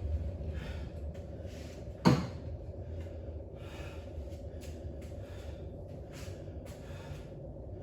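A person breathing hard in repeated audible breaths, about one a second, with a single sharp knock about two seconds in.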